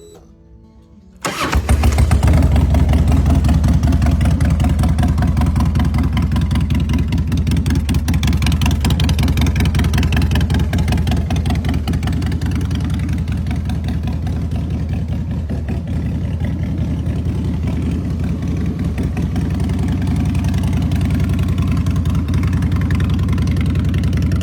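Harley-Davidson 2003 Fat Boy's air-cooled V-twin engine starts about a second in, then idles steadily.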